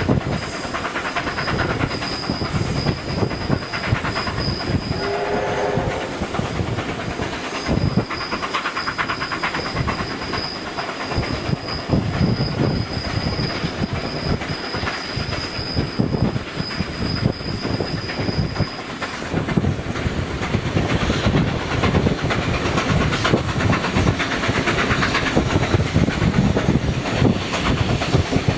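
Train running along the track, its wheels clicking over the rail joints, with a short pitched tone about five seconds in.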